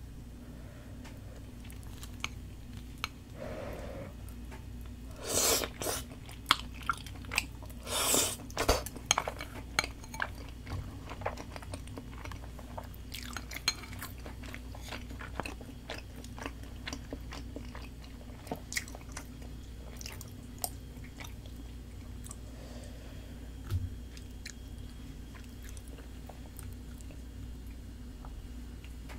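Close-miked chewing and biting of spicy tteokbokki (chewy rice cakes, fish cake and noodles in sauce): soft wet mouth clicks and crackles, with a few louder noisy bursts about five and eight seconds in.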